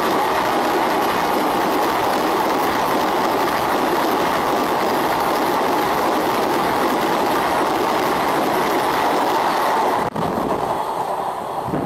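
Train 18 (Vande Bharat Express) electric trainset passing close by at speed: a steady, loud rush of wheels on rails and air. About ten seconds in, the sound breaks off abruptly and comes back quieter and uneven.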